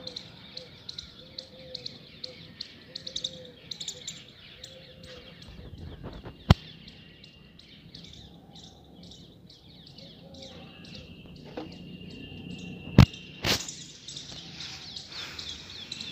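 Small birds chirping in quick repeated calls, about three or four a second at first. Two sharp clicks stand out, about six and a half and thirteen seconds in, and the second is followed by a short louder burst.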